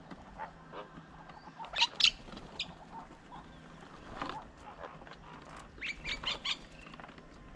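Birds at a feeding table making short, sharp sounds in quick clusters, loudest about two seconds in, with more around four and six seconds.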